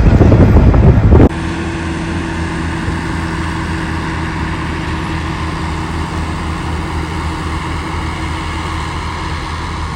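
A loud rushing noise for about the first second, then a sudden change to a vehicle engine running with a steady, even drone that holds one pitch.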